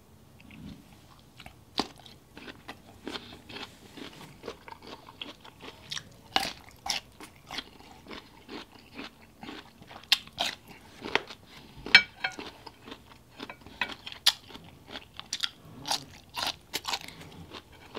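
Close-up chewing of boiled bamboo shoot: irregular crisp crunches and wet mouth sounds, several a second, beginning about a second and a half in.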